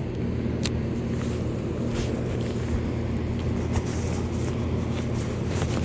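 Steady low engine hum running evenly, with a few faint light clicks on top.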